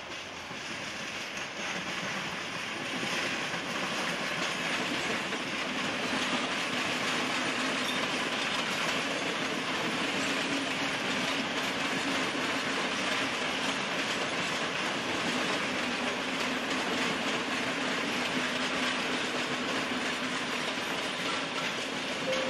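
Dutch electric passenger trains, among them an NS Koploper intercity unit, rolling past over station tracks and pointwork with their wheels clattering over the rail joints and crossings. The sound builds over the first few seconds and then holds steady.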